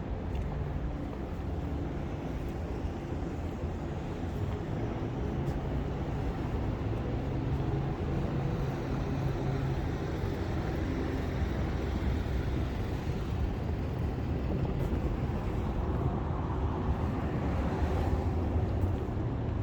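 Steady rumble of city traffic, swelling in the last few seconds as a vehicle passes.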